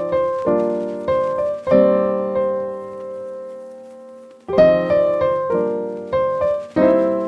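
Background music of keyboard chords, piano-like, struck in short phrases: a run of chords, one long chord left to fade for a couple of seconds, then a second run of chords.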